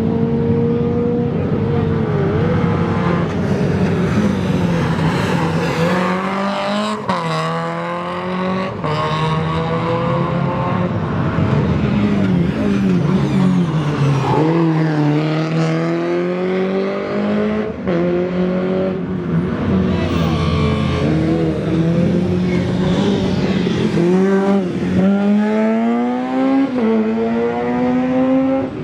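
Rally car engine at full throttle, revs climbing and dropping sharply at each gear change, repeated through several upshifts, with a few sharp exhaust cracks around the shifts.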